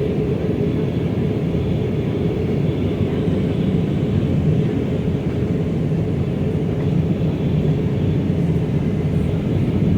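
Steady rumble of airliner cabin noise inside an Airbus A319 in flight, engine and airflow noise with no change in level.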